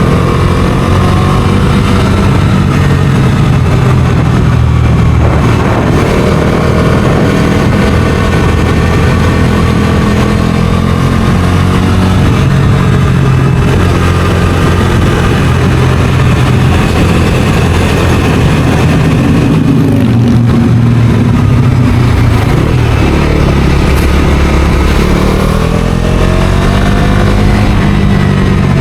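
Bajaj Dominar 250's single-cylinder engine pulling a moving motorcycle, its revs rising and falling through the throttle and gear changes, over a steady rush of wind and road noise.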